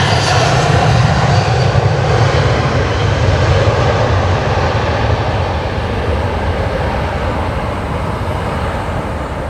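Jet aircraft engines going past, a loud steady rumble and rush that slowly fades over the second half.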